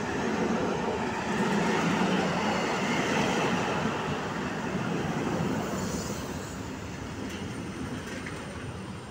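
An EN57-series electric multiple unit running past along the platform, its wheels rumbling on the rails. The sound is loudest in the first few seconds as the cars go by close, then fades as the train draws away.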